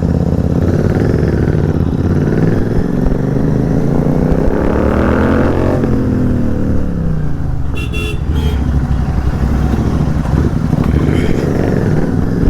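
Royal Enfield 650 parallel-twin motorcycle engine running through an aftermarket exhaust; it rises in pitch from about two seconds in, peaks around five seconds and drops back, a rev or acceleration. A brief horn toot about eight seconds in.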